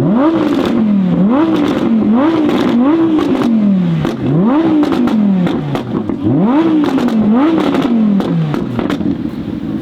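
Audi R8 V10 Performance's 5.2-litre V10 through an aftermarket Capristo exhaust, revved hard from idle about seven times. Each rev climbs fast and falls away slowly, with crackles and pops as the revs drop, and the engine settles back to idle near the end.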